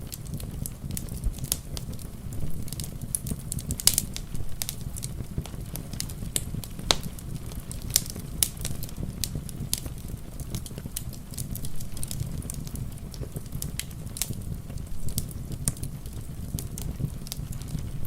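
Wood fire crackling, with frequent sharp pops (the loudest about four and eight seconds in), over a steady low rumble.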